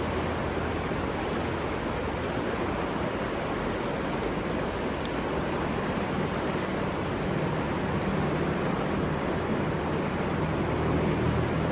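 River water rushing in a steady, even wash. A low steady hum comes in about halfway through and grows slightly louder near the end.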